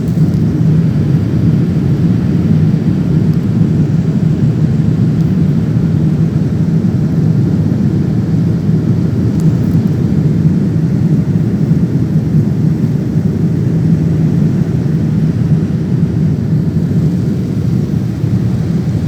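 Jet airliner heard from inside the passenger cabin: a steady, loud low rumble of engines and airflow with no change in pitch.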